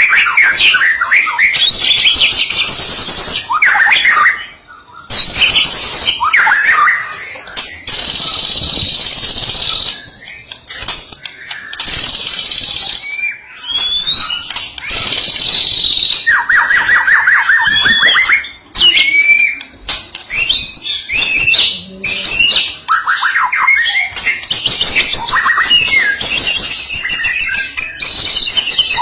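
White-rumped shama (Medan murai batu) singing loudly and almost without a break: a varied song of clear whistles, rapid trills and sharp bursts, its mimicked phrases included, with a few short pauses.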